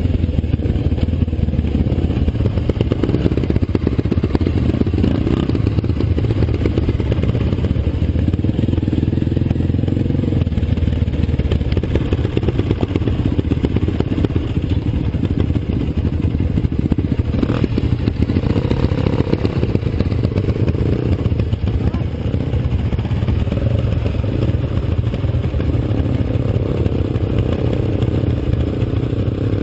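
Dirt bike engine running steadily under way, with clatter over the engine note.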